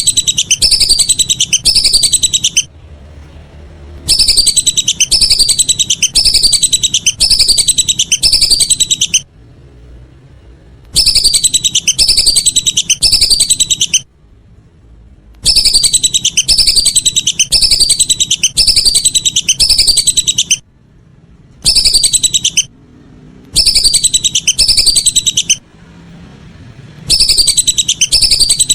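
Whistling duck (belibis) calls: bouts of rapid, high whistled notes, each falling in pitch, several a second, repeated with short pauses between bouts.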